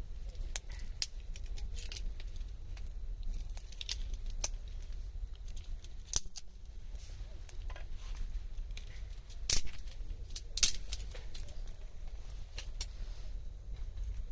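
Wood campfire crackling, with irregular sharp snaps and a few louder pops about six, nine and a half and ten and a half seconds in, over a low steady rumble.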